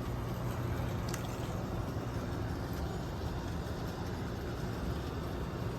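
Everstar 10,000 BTU portable air conditioner running: a steady rush of air from its blower over a low, even hum, with a faint tick about a second in.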